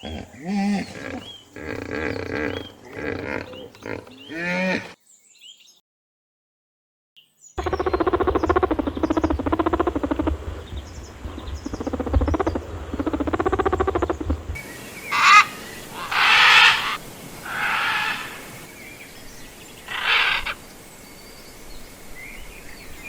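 Animal calls in several separate stretches. First come repeated pitched cries, then a break of silence about five seconds in. After that come more calls over a low rumble, and in the last third come short, high-pitched calls.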